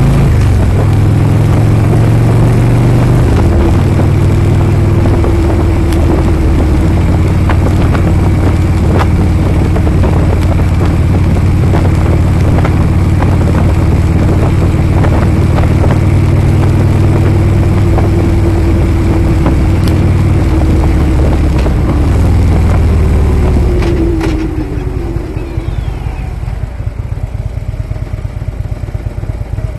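Harley-Davidson motorcycle engine running steadily at cruising speed, then its pitch falls and it gets quieter near the end as the bike slows off the throttle.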